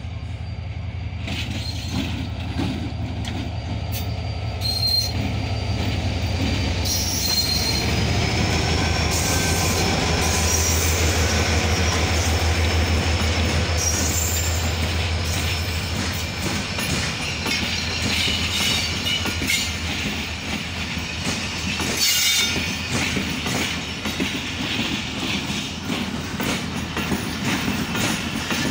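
Diesel-hauled passenger train moving slowly through the points from the main track onto another track. The locomotive drones steadily, and the wheels squeal at intervals and click over the rail joints and switch. The drone is loudest around the middle.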